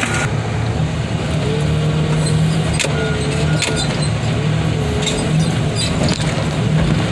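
Heavy machine engine running steadily under load, a low drone with a faint wavering whine over it and a couple of sharp clicks about three seconds in.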